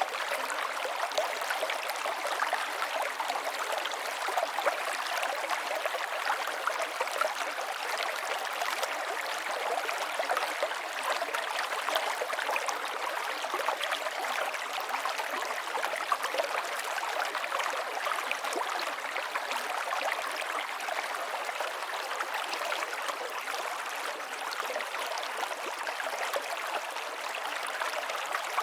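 River water flowing steadily over stones, a continuous rushing with fine splashing and burbling, light in the low end.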